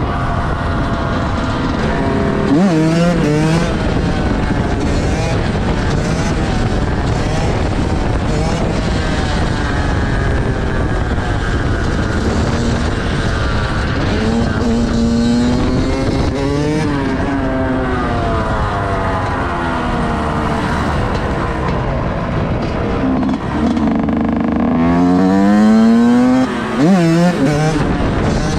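Loud vehicle engines running together, with repeated revs whose pitch climbs and drops; the biggest run of revving comes near the end.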